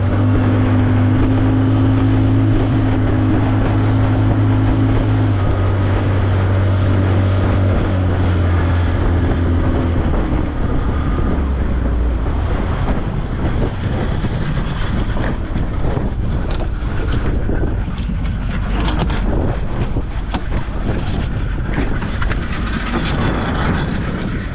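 A skiff's outboard motor running, then throttled back, its pitch dropping in steps about five to ten seconds in. After that, wind buffeting the microphone and water noise take over, with scattered knocks.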